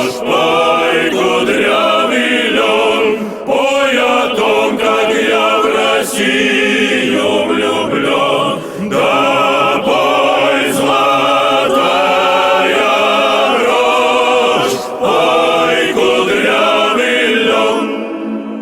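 A choir singing, many voices together in harmony. Near the end the singing stops and a low held tone remains.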